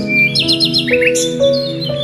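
Small birds chirping in quick runs of short notes, about half a second in and again near the middle, over soft background music with held notes.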